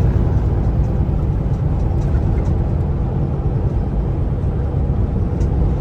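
Steady low rumble of a Kenworth T680 semi-truck cruising on the highway: engine and road noise heard from inside the cab.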